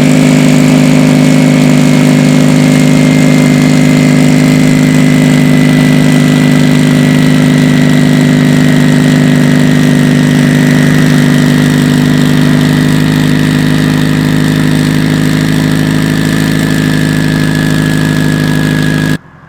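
Built, turbocharged Subaru STI 2.5-litre EJ257 flat-four with a hood-exit exhaust, idling loudly and steadily. A thin high whine drifts slowly down in pitch, and the sound cuts off abruptly near the end.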